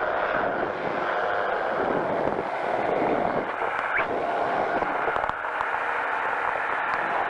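Powered parachute engine and propeller running steadily in flight, a constant noisy drone.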